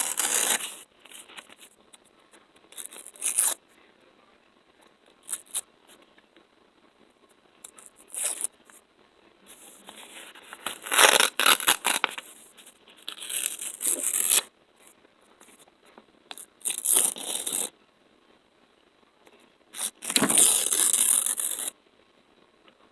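ASMR sticky sounds: sticky material being peeled apart close to the microphone. It comes in about eight crackly bursts, each lasting from a fraction of a second to about two seconds, with quiet gaps and a few light clicks between them.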